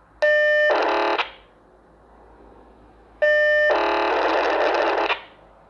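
POCSAG pager data heard through a Baofeng UV-5R handheld radio: two bursts, a short one and then one about twice as long. Each opens with a steady, clean tone and breaks into a harsh, rapid digital buzz, with faint receiver hiss between them.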